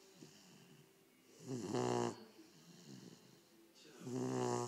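Cane Corso puppy snoring: two loud snores about two and a half seconds apart, each about a second long, with quieter breathing between.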